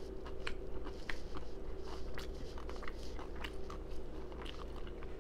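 Close-up chewing with loud, wet open-mouth smacking: many short, irregular mouth clicks.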